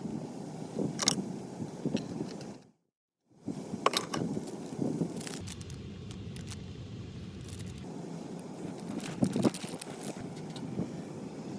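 Scattered clinks and scrapes of things being handled over a steady outdoor rumble, cutting out briefly about three seconds in.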